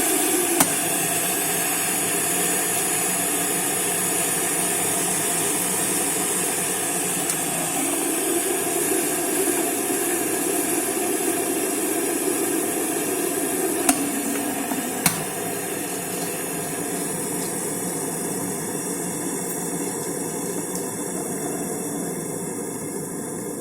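Opti Vicky stainless steel series electric kettle heating water up to the boil, a steady rushing hiss. It thins out and gets a little quieter in the last few seconds as the water reaches a full boil. A couple of sharp clicks come a little past halfway.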